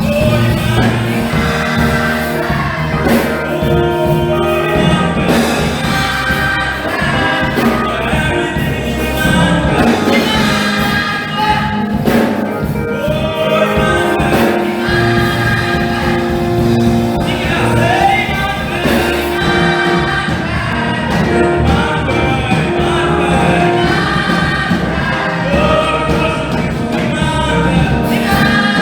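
Church choir singing a gospel-style Christmas song, many voices holding sustained notes over instrumental accompaniment with steady low bass notes.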